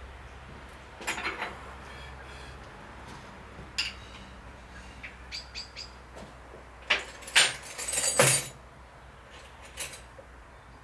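A small bird chirping in quick groups of three or four short, high peeps. There are louder rustling or scraping noises about seven to eight seconds in.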